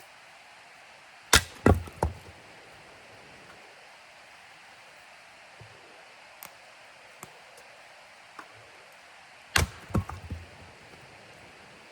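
Axe splitting firewood logs: two bouts of chopping about eight seconds apart, each a loud sharp strike followed by a few quicker, smaller knocks.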